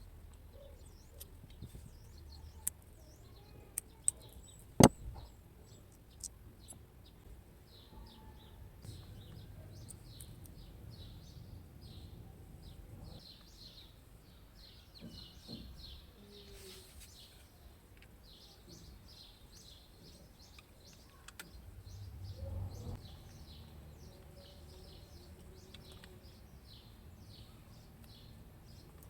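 Birds chirping over and over in the background, with a few sharp clicks in the first several seconds, the loudest about five seconds in.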